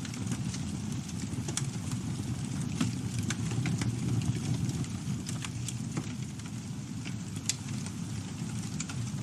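Campfire burning: a steady low rumble from the flames with irregular sharp crackles and pops from the burning wood.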